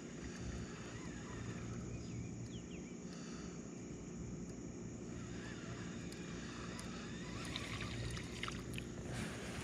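Small boat motor running with a steady low hum as the boat moves across the pond, with a few faint ticks and rustles near the end.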